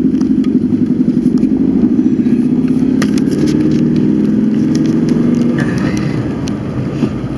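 Car engine running as the car pulls away, heard from inside the cabin, its pitch rising for a few seconds in the middle as it speeds up. A few scattered clicks sound over it.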